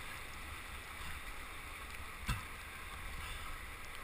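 Steady rush of river water, with one short knock a little over two seconds in.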